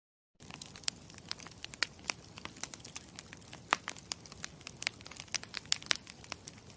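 Campfire crackling: a steady low hiss with frequent irregular sharp pops and snaps of burning wood. It starts from silence just under half a second in.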